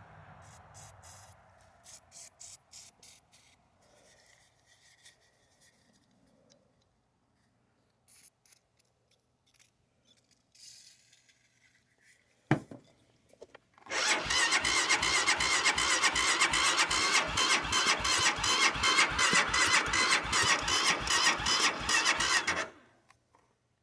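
An engine being cranked on its starter for about nine seconds, turning over in a fast, even rhythm without catching, then cutting off: a cold engine that won't start. A single sharp click comes a moment before the cranking begins.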